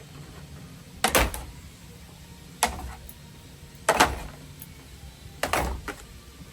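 Four loud knocks or bangs, about one every second and a half, each trailing off briefly, over a steady low hum.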